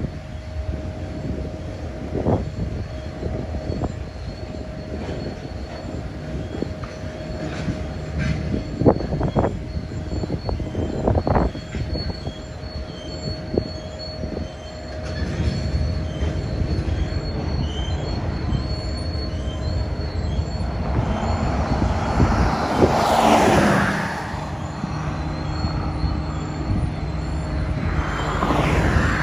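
Slow BNSF freight train of tank cars and boxcars rolling past, wheels rumbling on the rails with sharp knocks every few seconds. A louder swell rises and fades about two-thirds through, and a car passes on the road near the end.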